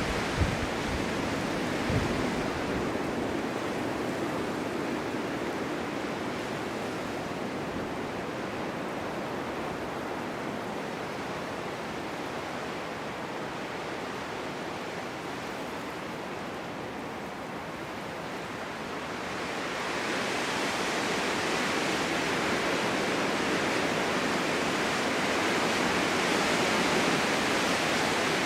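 Winter wind blowing across open ground in a steady whoosh, with a couple of low thumps near the start. It eases through the middle, then gusts up stronger and hissier about two-thirds of the way in.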